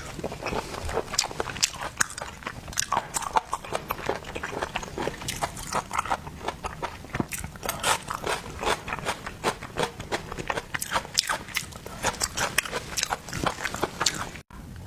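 A person chewing and biting seafood close to the microphone, a dense run of quick irregular mouth clicks and smacks.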